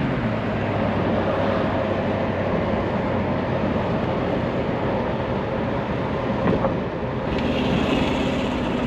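1970 Ford Mustang convertible driving with the top down: steady engine hum under a continuous rush of road and wind noise, with a brighter rush of wind near the end.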